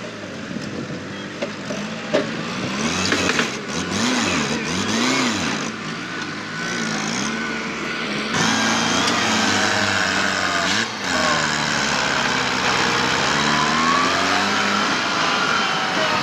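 Kubota tractor's diesel engine revving, its pitch rising and falling several times, then running louder and steadier from about halfway through.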